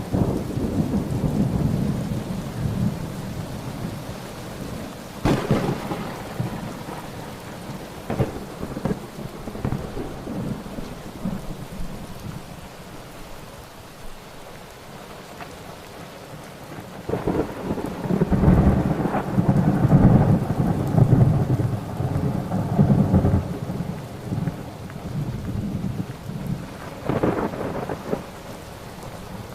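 Thunderstorm: steady rain with rolling thunder. A sharp crack about five seconds in, a long loud rumble in the middle that is the loudest part, and another crack near the end.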